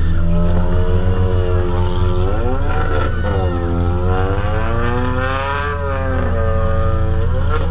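A derby car's engine heard from inside the car, its revs rising and falling with a steady low drone underneath, and a sharp knock about three seconds in and another near the end.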